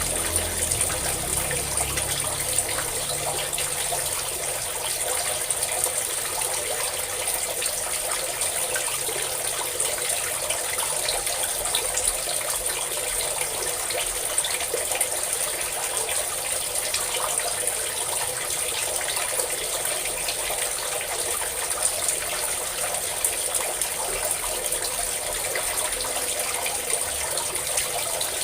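Water pouring in a steady stream and splashing continuously, with an even hiss and no breaks. A low rumble underneath fades out within the first two seconds.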